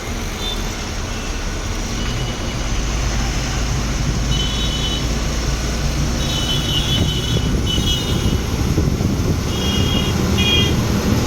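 Truck engine running steadily under way, heard from inside the cab, with several short high-pitched beeps about halfway through and again near the end.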